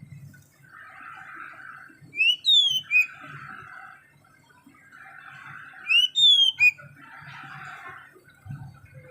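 A black-and-white bird calling twice, each call a loud whistled note sliding upward and then a few quick falling notes. A softer, scratchy sound comes and goes between the calls.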